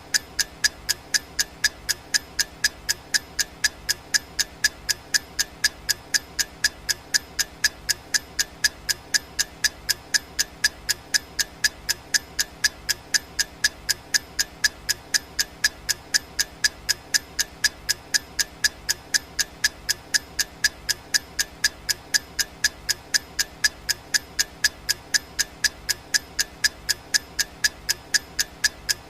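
Clock ticking sound effect: sharp, evenly spaced ticks at a steady, unbroken rate, marking off the seconds of a countdown timer.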